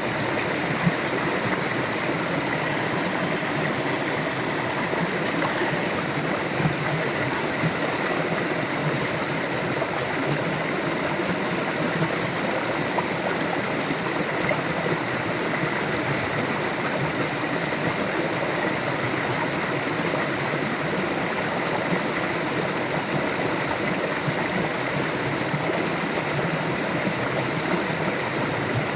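River water flowing, a steady even rush with no break.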